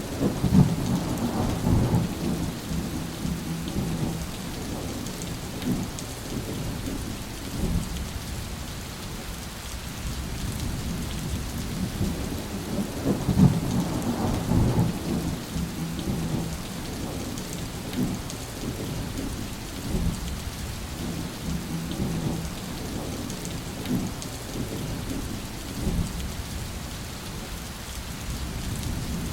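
Steady heavy rain falling, with rolling thunder rumbling underneath that swells twice, near the start and about halfway through.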